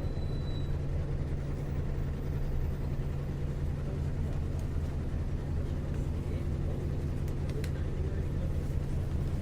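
Isuzu U-LV224N bus's 6QB2 diesel engine running at a steady pitch, heard from inside the passenger cabin while the bus is under way, with no gear change or revving.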